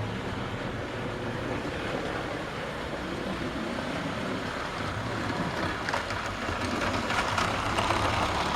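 Vintage Hornby 00 gauge model locomotive running steadily on the layout's track, its electric motor whirring and wheels running on the rails, with a few sharp clicks about six to seven and a half seconds in.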